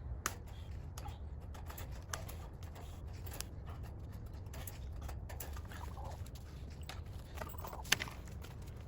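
Chickens clucking softly, with scattered sharp clicks and taps, the loudest one near the end, over a steady low rumble.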